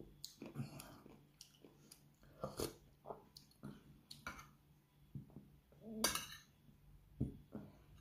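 Close-up chewing and mouth smacks from a person eating rice and pork, with light clicks of a metal spoon against a plate. One louder, brief mouth noise comes about six seconds in.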